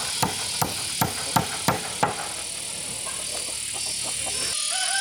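A hammer striking wood in quick, even blows, about three a second, which stop about two seconds in, over a steady high hiss.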